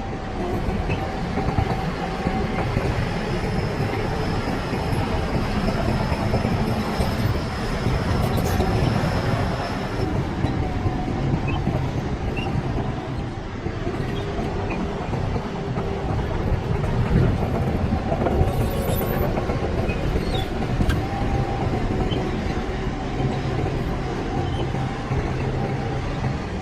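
Shantui DH17C crawler bulldozer working, its diesel engine running steadily under load. A faint high whine sounds for several seconds in the first part, and small clicks are scattered throughout.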